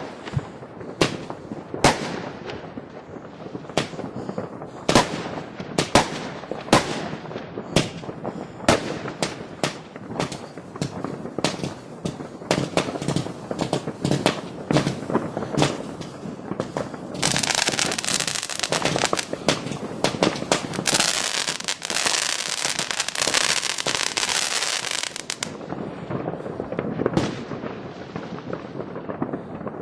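New Year's Eve consumer fireworks going off: many sharp bangs at irregular intervals, with a dense hissing crackle from about 17 to 25 seconds in.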